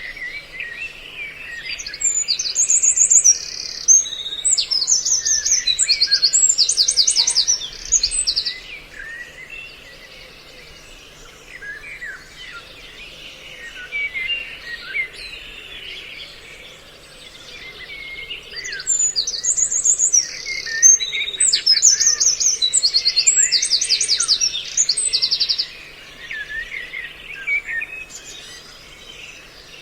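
Recording of several kinds of small songbirds calling together, used as a trapping lure: many small chirps throughout, twice broken by several seconds of loud, rapid high trills, the same passage repeating about 17 seconds apart.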